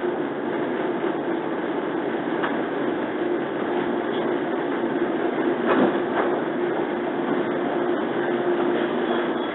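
Cabin running noise of a JR 115 series electric train: a steady rumble with a held hum, and two sharp clicks close together about six seconds in as the wheels cross a rail joint or points.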